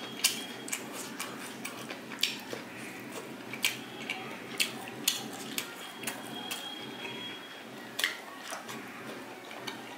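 Mouth sounds of a person chewing chicken momos: irregular clicks and smacks, a sharper one about eight seconds in as he bites into another momo, over a steady low background hum.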